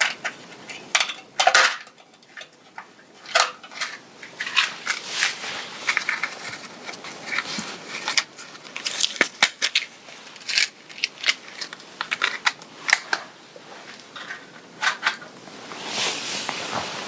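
Fabric of a dress being handled and adjusted during a fitting: irregular rustling with many short sharp crackles and clicks.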